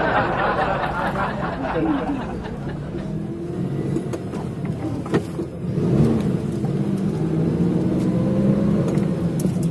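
Car engine running, with the revs rising and falling briefly about six seconds in. A single knock a little after five seconds in.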